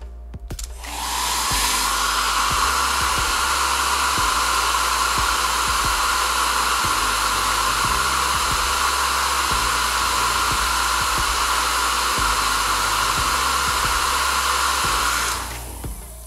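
SHINIL SHD-S70RW hair dryer switched on about a second in, building up over a second to a steady running blow with a strong hum in its rush of air, then switched off shortly before the end.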